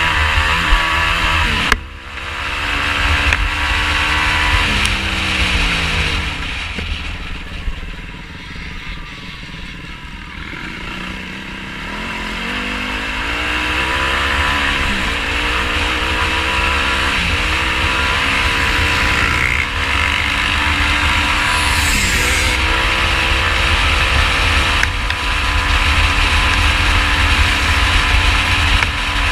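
Quad's single-cylinder four-stroke engine being ridden off-road, revving up and down as the throttle is worked, cut off sharply about two seconds in and easing off for a few seconds near the middle before pulling steadily again.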